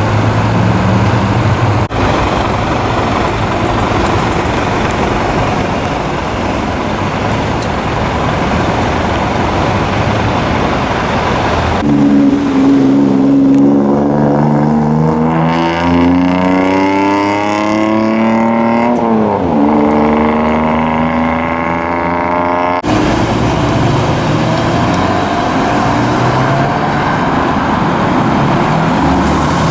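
Modified Japanese cars accelerating hard with loud aftermarket exhausts, in several short clips cut together. In the middle clip an engine revs up, and its pitch drops sharply as the car passes by.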